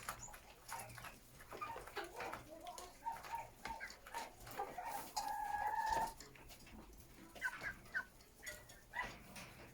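A flock of chickens clucking, many short overlapping calls, with one longer, louder call held for about a second around five seconds in.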